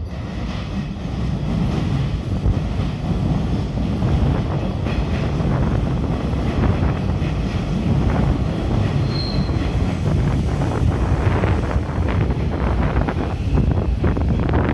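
Hanshin Electric Railway commuter train running into the station: a steady rumble of motors and wheels that builds over the first couple of seconds. A brief high squeal comes about nine seconds in, and a run of sharp clicks follows near the end.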